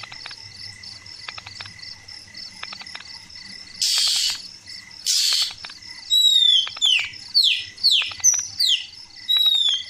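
Oriental magpie-robin (kacer) singing: after two short harsh hissing notes, a quick run of clear whistles that each slide downward, starting about six seconds in. A steady pulsing cricket trill runs underneath.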